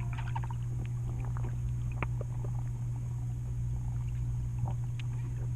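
Hot tub's pump running with a steady low hum, with scattered light ticks above it.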